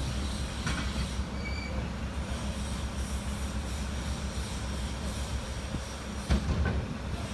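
Heavy construction machine's diesel engine running steadily, with brief metallic squeals and a louder knock about six seconds in.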